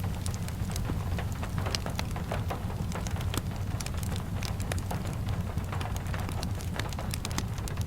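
Steady rain mixed with a crackling wood fire: a constant low rumble under many sharp, irregular pops and ticks.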